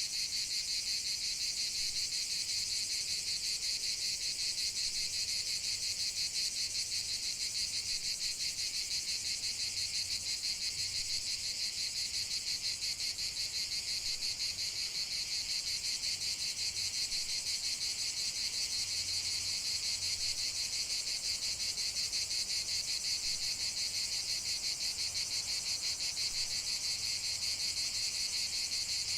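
A steady, dense chorus of crickets chirping, a fast even high-pitched trilling that never lets up.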